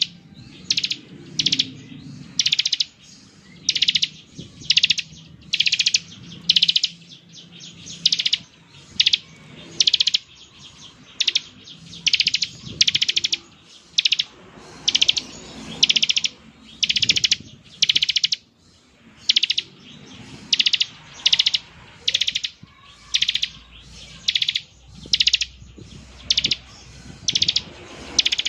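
Bar-winged prinia (ciblek) giving its buzzy 'ngebren' call: short, fast, high-pitched trills repeated about one and a half times a second.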